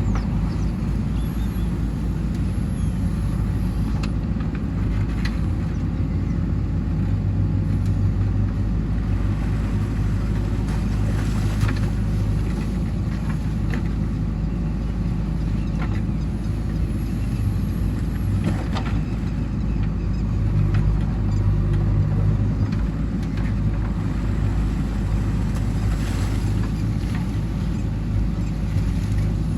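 JCB 3DX backhoe loader's diesel engine running steadily, rising under load at times as it digs, with a few sharp knocks scattered through.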